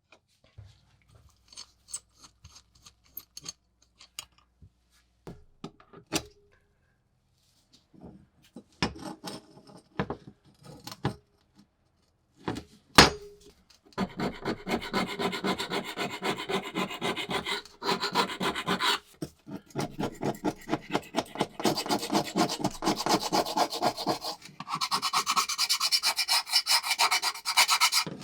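Scattered clicks and knocks of metal being handled and set down, then about halfway through, fast, steady back-and-forth scraping strokes of hand work on rusty metal, turning higher and brighter near the end.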